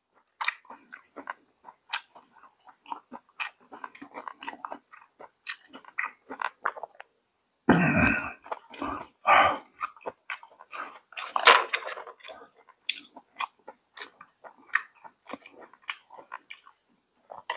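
Close-miked chewing of a rice-paper wrap filled with raw vegetables and grilled meat: a steady run of small mouth clicks and bites, with a few louder mouthfuls near the middle.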